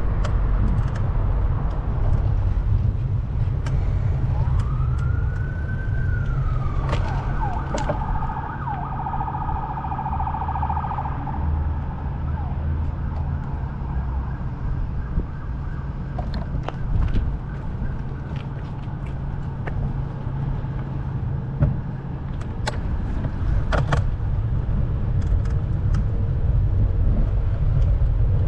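An emergency vehicle siren sounds about four seconds in: one long rising-and-falling wail, then a rapid warble, fading out by about twelve seconds. A steady low rumble of traffic runs beneath it.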